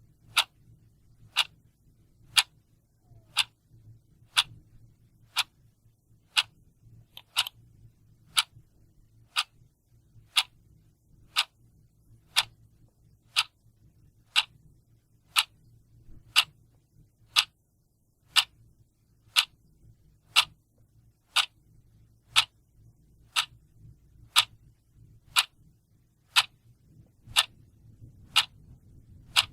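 Clock ticking steadily, one sharp tick about every second, with a faint low hum underneath.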